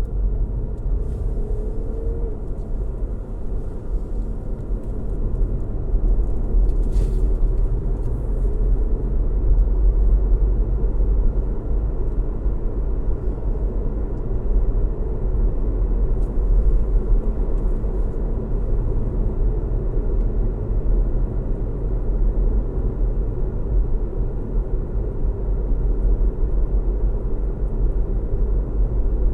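Steady low rumble of a car driving on a road, engine hum and tyre noise, with a faint whine near the middle of the range.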